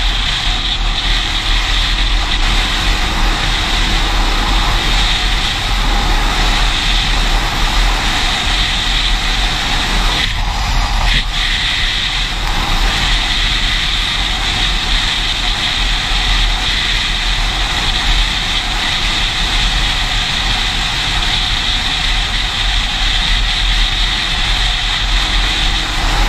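A vehicle engine drones steadily with a hiss over it, holding an even level with no revving.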